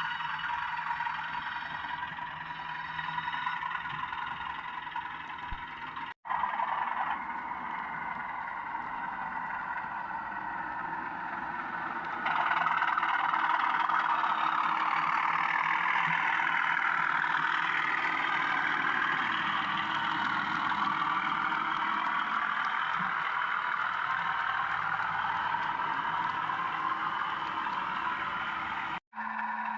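Sound-fitted 00 gauge model of a British Rail Class 37 diesel locomotive playing its diesel engine sound through the model's small speaker. The engine sound jumps louder about twelve seconds in and cuts out for an instant twice.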